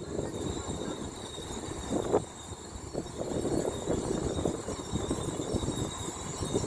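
A train running through a railway station: an uneven rumble with a thin, steady high whine over it.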